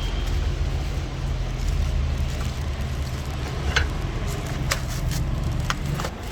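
A motor vehicle engine running with a steady low rumble, with a few sharp clicks or knocks in the second half.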